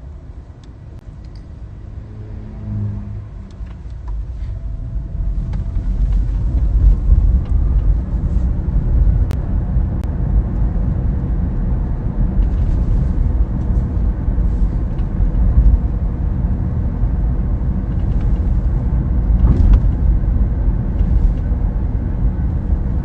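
Low road rumble of a moving Tesla heard from inside the cabin, growing louder about five seconds in and then holding steady.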